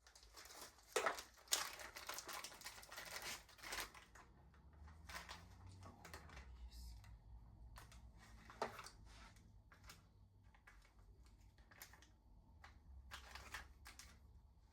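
Handling noises: scattered clicks and knocks with rustling, thickest in the first four seconds and sparser after.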